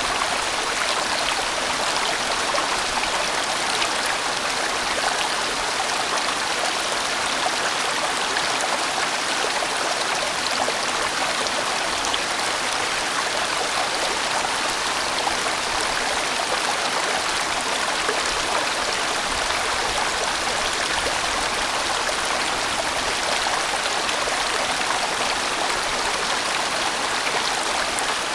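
A large mountain valley stream flowing steadily: a dense, even rush of water that does not let up.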